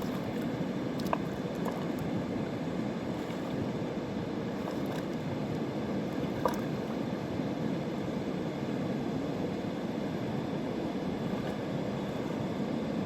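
A fast mountain river rushing steadily, with a couple of brief faint clicks, the clearest about six and a half seconds in.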